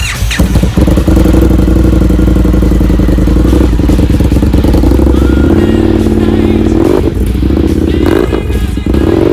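Indian FTR 1200's V-twin engine running through a QD Gunshot 60 aftermarket exhaust, coming in suddenly near the start and idling steadily, with small shifts in pitch in the second half.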